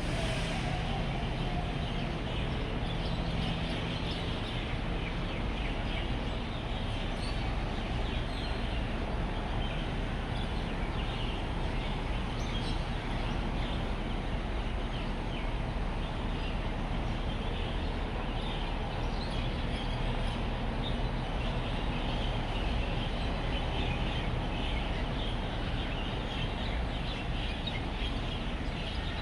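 A roosting flock of birds chirping densely and continuously over a steady hum of road traffic.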